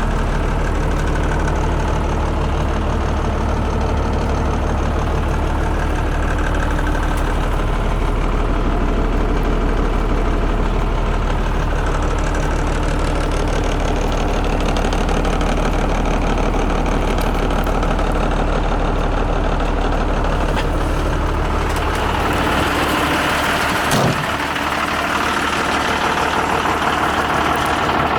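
Renault Midliner M210 4x4 truck's diesel engine idling steadily. About three-quarters of the way through, the low hum drops away and a brighter, hissier running sound takes over, with a single sharp click shortly after.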